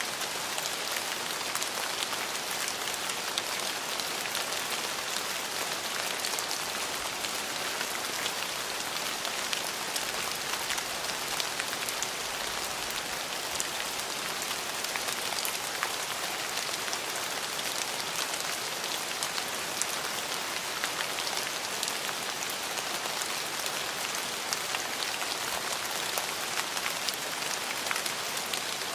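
Steady heavy rainfall: an even hiss of rain with many close, distinct drops pattering, no thunder.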